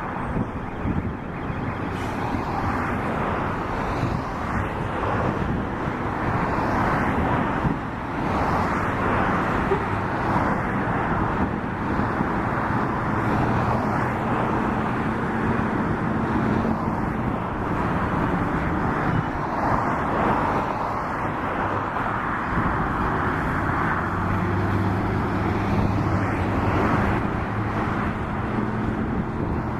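Scania truck's diesel engine running as the truck pulls away, a steady mechanical rumble with a low engine tone that becomes clearer and stronger in the second half.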